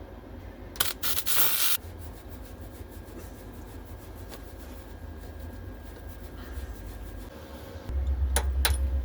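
Weld on steel being scrubbed clean between MIG welding passes, most likely with a hand wire brush: a loud scrub lasting about a second, about a second in, then quieter rubbing. Near the end a low hum comes in, with several sharp knocks.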